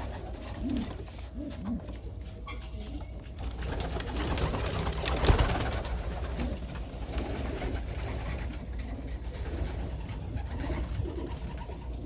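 Domestic pigeons cooing in a loft, low rising-and-falling coos. A sudden loud knock about five seconds in, followed by rustling.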